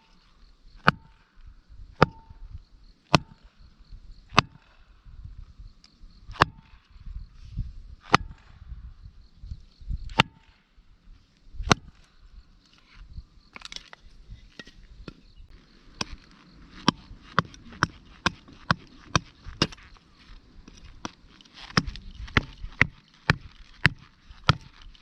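All-steel hand axe chopping firewood with repeated sharp blows, about one every second at first. In the second half the strikes come quicker, about two a second.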